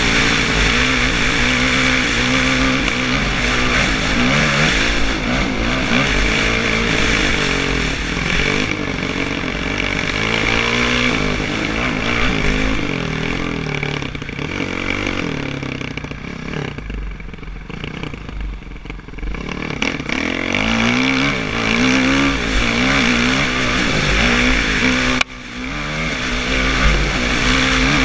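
Kawasaki KX450F dirt bike's single-cylinder four-stroke engine revving up and down hard while being ridden, its pitch repeatedly rising and falling. It eases off and goes quieter about halfway through, then picks up again, with a brief sudden drop near the end.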